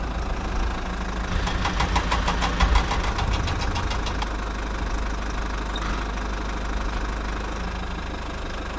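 Small motor of a DIY model tractor running steadily, with a fast, even run of clicks for a few seconds about a second in.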